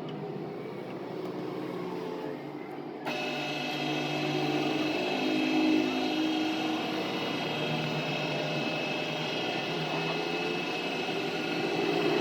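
A machine running steadily with a hum of several tones; about three seconds in the sound changes suddenly and a higher whine joins it.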